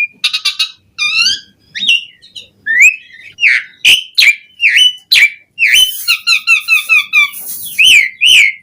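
Pied starling (jalak suren) singing a loud, varied song of whistled notes that swoop up and down, broken by sharp clicks. About six seconds in it gives a fast run of repeated notes over a harsh hiss.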